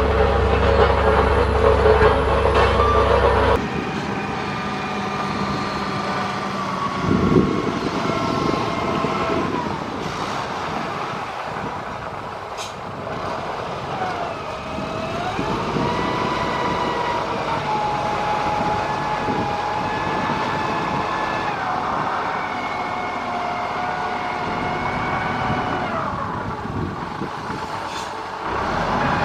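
Heavy construction machine engine running, deep and loud at first, then after an abrupt change about three and a half seconds in, a whining tone that slowly rises and falls as the revs change.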